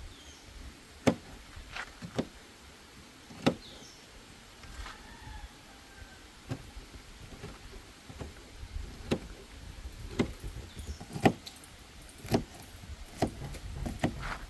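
Knife knocking on a cutting board while a sweet pepper is cut: sharp single chops at an uneven pace, about a dozen in all, coming closer together in the second half. Faint bird chirps sound now and then.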